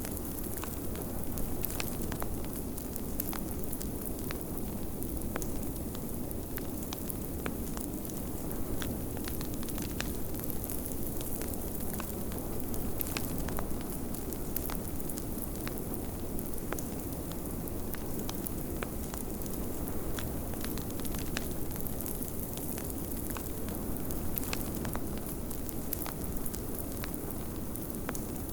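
Wood fire crackling, with frequent sharp irregular pops, over a steady low rush of snowstorm wind.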